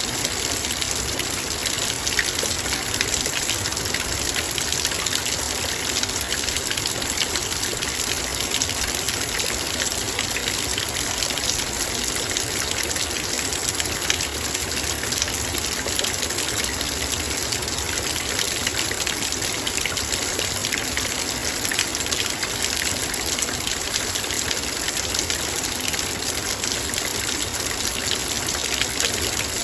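Heavy rain falling on a metal bowl: a steady, dense hiss of rain peppered with countless individual drop hits on the metal.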